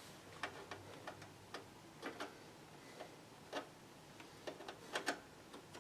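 Faint, irregular light clicks and taps of small hard parts being handled, about a dozen, a few slightly louder.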